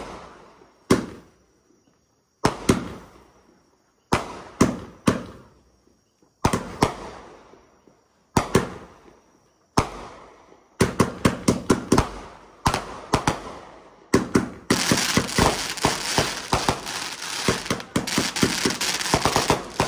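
Consumer fireworks going off: single loud bangs every second or two, quickening into a rapid volley about eleven seconds in, then a dense, unbroken run of bangs from about fifteen seconds on.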